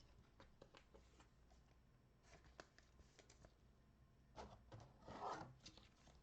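Near silence with faint handling of trading cards and their packaging: soft ticks and rustles, with a slightly louder rustle about five seconds in.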